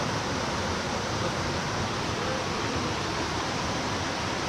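Mountain stream rushing steadily: a constant, even noise of flowing water.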